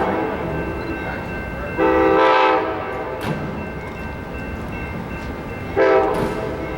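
Amtrak locomotive's horn sounding two blasts, a longer one about two seconds in and a shorter one about six seconds in, over the continuous rumble of the arriving train.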